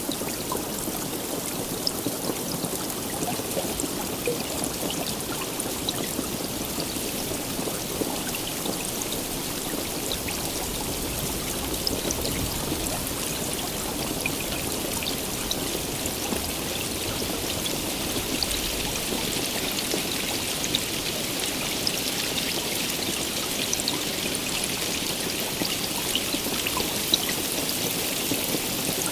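Steady heavy rainfall, an even hiss dotted with many sharp ticks of individual drops striking.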